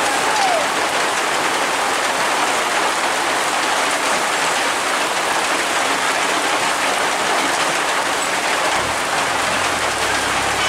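Heavy rain falling steadily, an even hiss. A low rumble comes in near the end.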